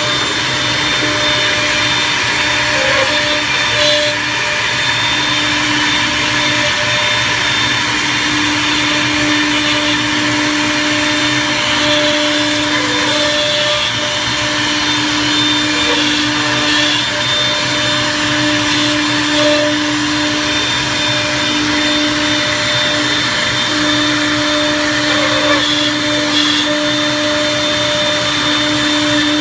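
Yowcherng DOM-3 CNC multi-head mortise and tenon machine running: a steady motor whine whose main tone drops out and comes back several times, with a few short bursts of noise.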